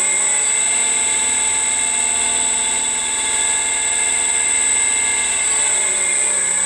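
Electric motor running from a variable-frequency drive with a strong, steady high-pitched whistle over its motor hum. The whistle is the one that appears when it is run from the frequency converter. The motor's pitch holds steady, then starts falling near the end as it slows down.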